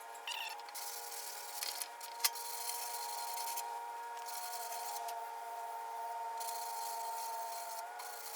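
Hand sanding block rubbing over body filler on a bus bumper in several long strokes, each a dry rasping hiss of about a second or more, with short pauses between them.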